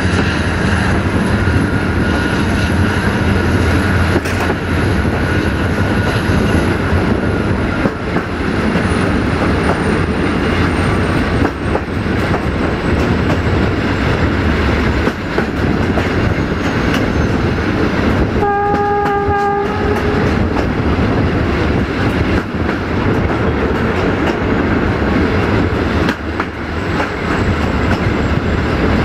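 A diesel-hauled passenger train running, heard on board: a steady rumble with wheel clicks over the rail joints. About two-thirds of the way through, the locomotive sounds one horn blast of just over a second.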